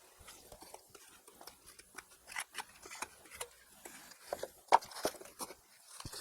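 Scattered light clicks and scrapes from handling materials and tools during work, with one sharp click about three-quarters of the way through.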